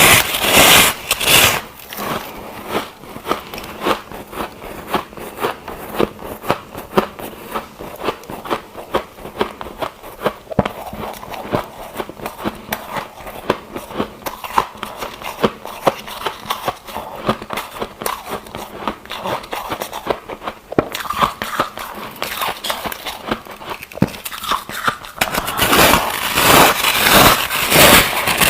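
Ice being chewed and crunched close to the microphone: a run of sharp cracks and crunches, several a second. It is louder and denser at the very start and again over the last few seconds.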